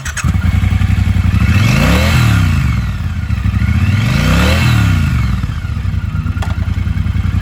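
Triumph Bonneville Bobber 1200's parallel-twin engine running at idle with a throbbing beat, revved up and back down twice, about two seconds in and again about four and a half seconds in.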